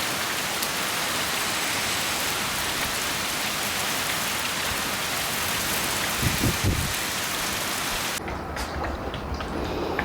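Heavy storm rain pouring down, a steady dense hiss that cuts off abruptly about eight seconds in. A brief lower sound stands out just after six seconds.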